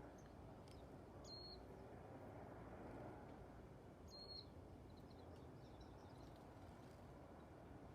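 Two short, high bird calls, one about a second in and one about four seconds in, over faint steady outdoor background hiss.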